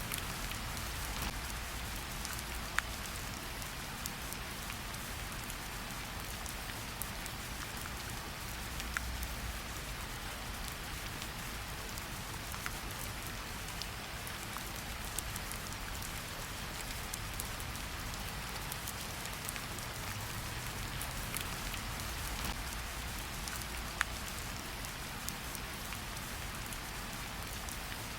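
Steady rain falling in a forest, with close drops ticking sharply here and there.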